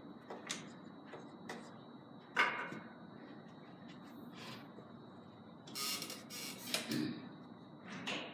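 Carom billiard play on a three-cushion table: a handful of sharp, separate clicks of cue and balls striking, the loudest about two and a half seconds in with a brief ring. Around six seconds in there is also a short rustling hiss.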